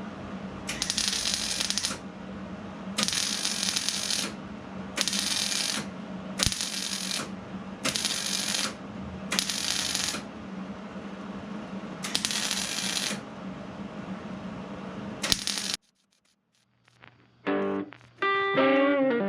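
Gas-shielded wire-feed (MIG) welder stitch-welding a sheet-steel replacement upper cowl panel: about eight short bursts of arc noise, each a second or less, with pauses between them and a steady low hum underneath. Near the end the sound cuts off and electric guitar music begins.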